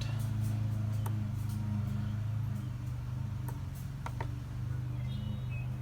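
A steady low machine hum, with a few faint sharp clicks.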